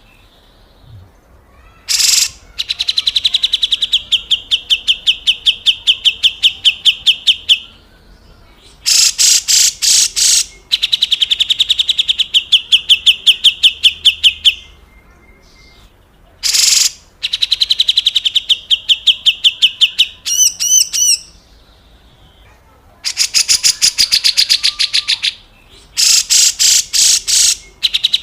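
Grey-cheeked bulbul (cucak jenggot) giving its harsh rattling call: rapid rasping notes about six a second, in runs of a few seconds broken by short pauses. A brief warbling whistle comes a little past the middle.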